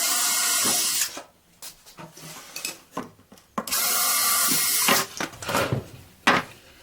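Power drill boring a hole through a board with a small bit, running in two bursts, about a second at the start and a second and a half near the middle, with a few knocks of the wood and drill between them.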